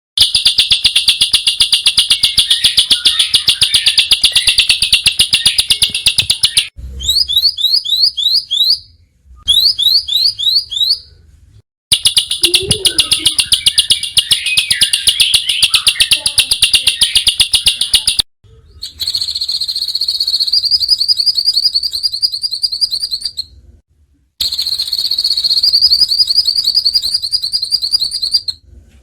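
Small songbird giving dense, very fast, harsh high-pitched trills ('tembakan' shots), broken by quick rising chirps, in stretches that cut off abruptly.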